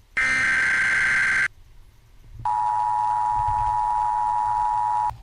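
Emergency Alert System broadcast for a National Weather Service flash flood warning: a burst of screechy digital header data for just over a second, a short pause, then the two-tone attention signal held for nearly three seconds and cut off near the end.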